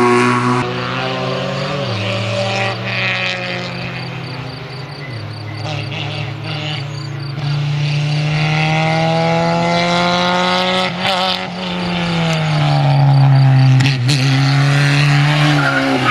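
Race car engine accelerating hard, its revs climbing and then dropping at each gear change, several times over.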